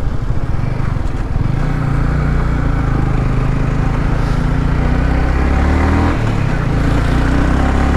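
Yamaha R15 V3's single-cylinder engine pulling steadily under load on a hill climb, with road and wind noise; the engine note dips briefly about six seconds in, then picks up again.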